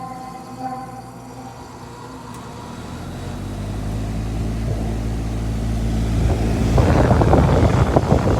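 Freshly oiled fan motor of an outdoor air-conditioning condenser being powered up: a hum with a slowly rising whine as it spins up. It builds over several seconds into a loud, rough rush of air from the fan blades.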